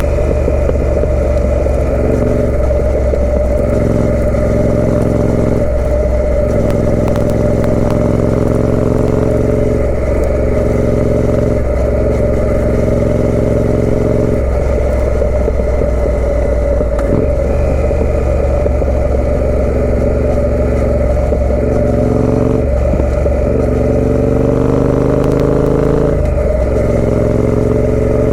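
Triumph Speed Twin 900's parallel-twin engine running through a British Customs aftermarket exhaust while riding, the revs climbing and dropping repeatedly through gear changes.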